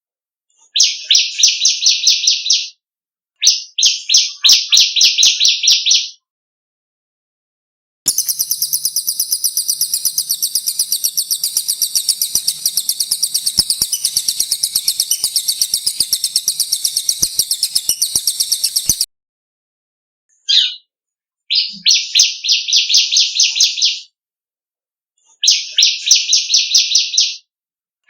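Recorded songs of the cililin and the ciblek (bar-winged prinia) played as birdsong master. They come as phrases of very fast repeated notes, each about two to three seconds long, with short gaps between them. In the middle, one much higher continuous rapid trill lasts about eleven seconds.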